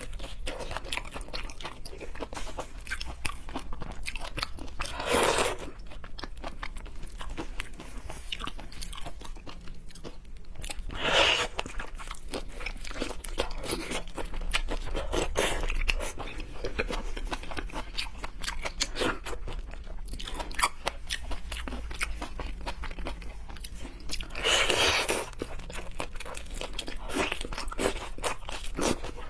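Close-miked eating: a person biting and chewing crunchy food, with dense crackling chews and louder bites at about five, eleven and twenty-five seconds in.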